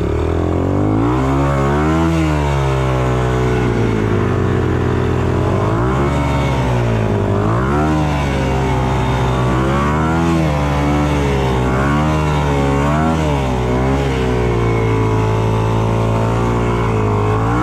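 Enduro motorcycle engine revving up and dropping back again and again, the pitch climbing and falling every second or two as the throttle is worked.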